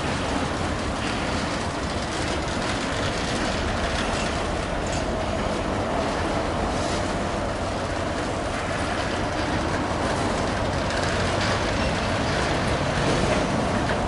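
Freight train wagons rolling steadily past, a continuous rumble of steel wheels on rail with occasional faint clicks over the rail joints.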